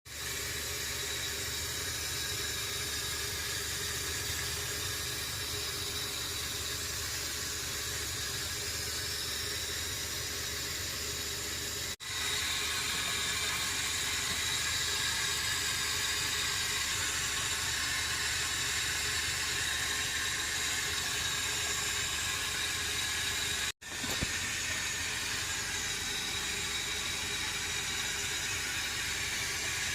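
Steady hiss of food cooking in a pan on the stove, broken off abruptly twice, about twelve seconds in and again near twenty-four seconds.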